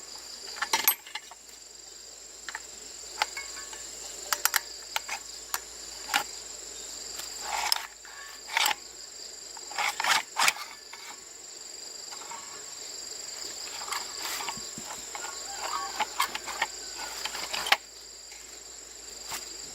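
Scattered sharp clicks, knocks and a few short scrapes, typical of hand tools working on metal plow parts, over a steady high-pitched insect drone.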